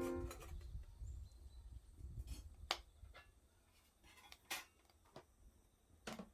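Background music ends, then a handful of faint, sharp clicks or snaps at uneven intervals.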